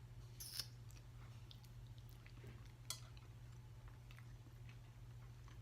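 Faint chewing of spaghetti, with small mouth or cutlery clicks about half a second and three seconds in, over a low steady hum.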